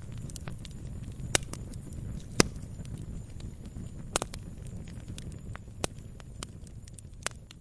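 Campfire crackling: a constant scatter of small pops and snaps of burning wood over a low rumble of the flames, with a few much louder sharp snaps spread through.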